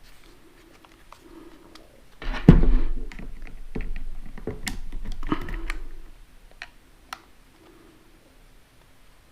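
Clicks and light metal rattling from a small chainsaw's chain and bar being handled and fitted back on, loudest in a clatter about two and a half seconds in, then only a few faint ticks.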